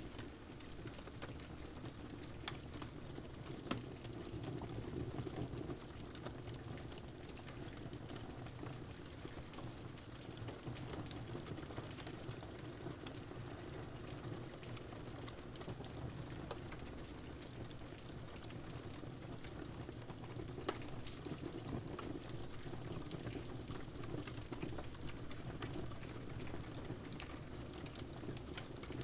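Wood fire crackling, with a few sharp pops, over a steady hiss of rain.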